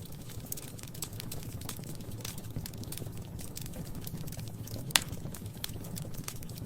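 Wood fire crackling in a fireplace: a steady stream of small irregular snaps over a low rumble, with one sharp louder pop about five seconds in.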